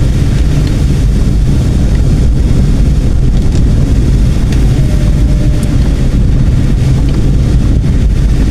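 A car driving, heard from inside: a loud, steady low rumble of road and engine noise.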